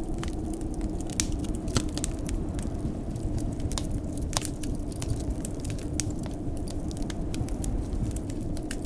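Wood fire crackling with frequent sharp, irregular pops, over a steady low rush of blizzard wind.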